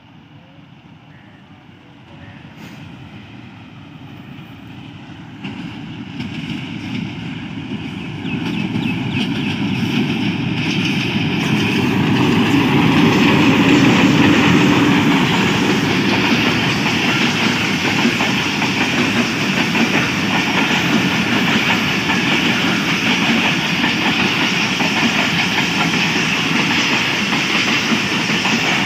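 Passenger train hauled by a Pakistan Railways diesel locomotive approaching and passing close by at speed. It grows louder for about twelve seconds and is loudest as the locomotive goes by, then the coaches roll past with steady wheel-on-rail noise.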